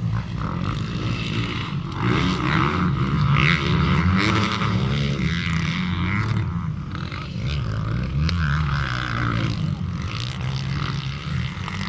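Motocross dirt bike engines running and revving, the pitch rising and falling as the throttle opens and closes.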